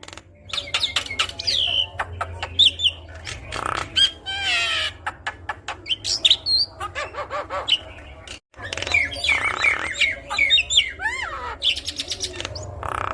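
Javan myna singing a busy, varied run of whistled notes that slide up and down, rapid clicks and harsh squawks, with a brief break in the sound about eight and a half seconds in.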